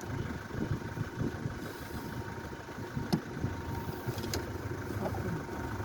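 An engine running steadily at idle, with two sharp clicks about three and four seconds in.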